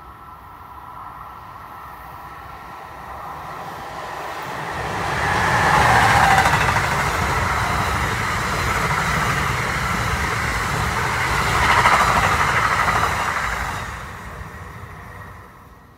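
NJ Transit MultiLevel double-deck commuter train passing through at speed without stopping: a faint hum with a thin steady tone as it approaches, then a loud rush of wheels on rail for about eight seconds, fading away near the end.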